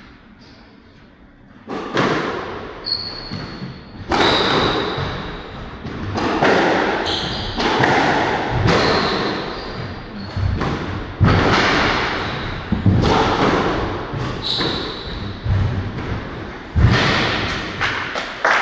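A squash rally: the ball is struck by rackets and smacks off the walls and floor in quick succession, starting about a second and a half in, with sneakers squeaking on the court floor between shots. It all rings in a large hall.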